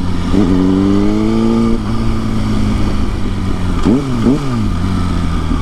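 Kawasaki ZX-6R sport bike's inline-four engine revving up for about a second and a half, then dropping off and running steady, with two quick rises and falls in pitch about four seconds in, over steady wind noise.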